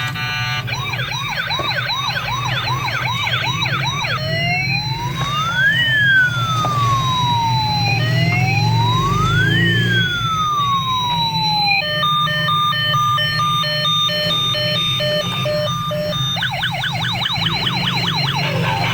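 Toy police car's electronic siren running through its patterns: a fast warble for about four seconds, then two slow rising-and-falling wails, then a rapid stepped two-tone pattern, and the fast warble again near the end. A steady low hum runs underneath.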